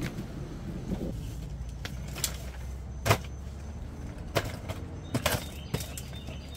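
Irregular sharp taps and knocks, about eight over several seconds, the loudest near the end, of camping gear being handled and set down, over a low steady hum.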